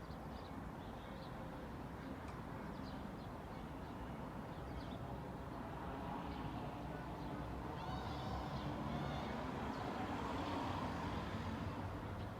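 Road traffic, a steady low rumble that swells about two-thirds of the way through, with small birds chirping over it.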